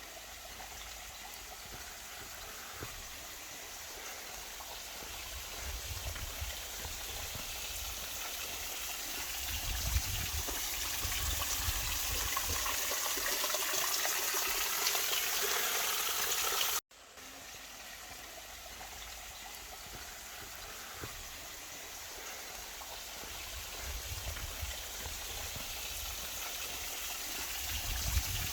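A small waterfall running with little water, splashing and trickling down rock in a steady rush. The rush grows louder, breaks off about 17 seconds in, then comes back quieter and builds again.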